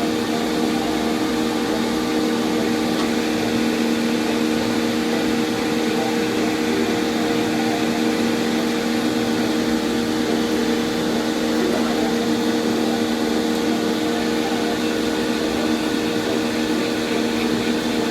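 Electric hair dryer blowing steadily, drying a dog's coat after a shampoo: a constant rush of air over a steady motor hum.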